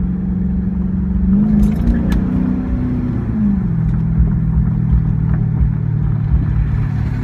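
Dodge Charger R/T's 5.7-litre Hemi V8 exhaust through a Dynomax X-pipe and Dynomax Super Turbo mufflers with the resonators removed, on the move. The note rises briefly as the car accelerates about a second and a half in, then drops around three and a half seconds in and settles into a lower steady cruise.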